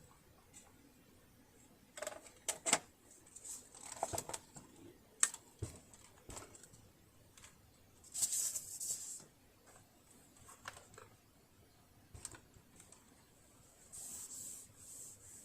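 Scattered small clicks and knocks of tools and parts being handled during work on a sewing machine, with two short hissing stretches about eight and fourteen seconds in.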